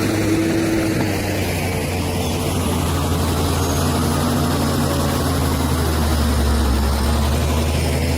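Bulldozer's heavy diesel engine running steadily, a low, even drone.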